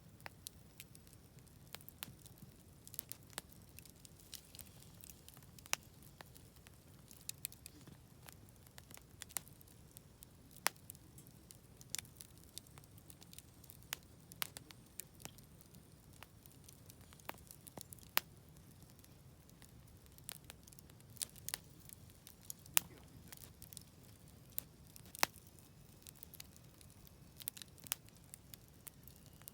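Wood fire burning in a fire pit, crackling with sharp, irregular pops and snaps over a faint steady low rush.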